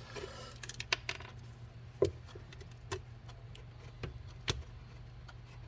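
Irregular light clicks and taps of hand tools and small metal parts being handled, about eight in all, over a faint low steady hum.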